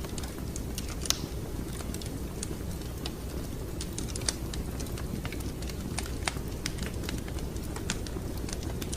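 Wood fire crackling: irregular sharp pops and snaps over a steady low rumble, with a louder pop about a second in.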